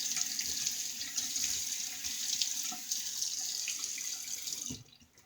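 Bathroom tap running into a sink with faint splashing as the face is wetted before lathering; the water is shut off abruptly near the end.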